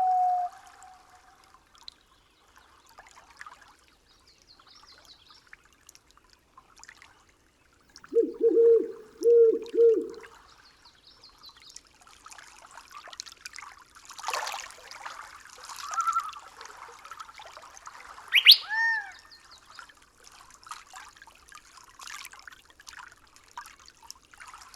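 Forest nature soundscape with a faint trickle of water. A steady tone cuts off in the first half-second, three low calls sound about 8 seconds in, and assorted bird calls come from about 14 seconds on, including a sharp whistle sliding down about 18 seconds in.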